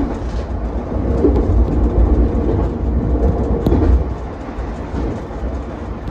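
Ichibata Electric Railway 7000 series electric railcar running along the line: a steady low rumble of wheels on rail that grows louder between about one and four seconds in, with a few faint sharp clicks.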